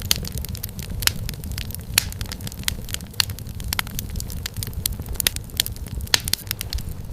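Wood fire crackling in a fireplace: frequent irregular sharp pops and snaps over a steady low rumble of the burning logs.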